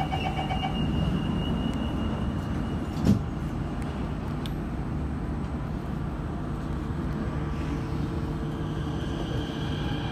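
Kawasaki–CRRC Sifang CT251 metro train running at speed, heard from inside the car: a steady rumble and hum, with one sharp thump about three seconds in. The uploader labels this set as having severe wheel flats.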